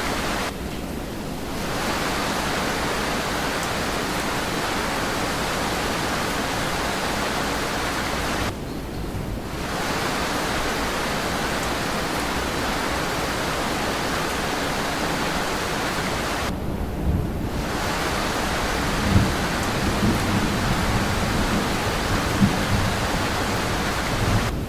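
Steady heavy rain with a brief dip in the hiss about every eight seconds. In the second half, low rolling thunder rumbles under the rain, peaking twice.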